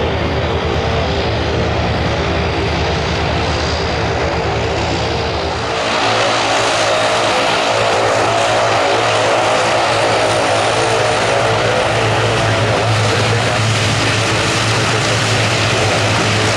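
Aircraft engines running loud and steady with a humming tone, turning abruptly louder and brighter about six seconds in.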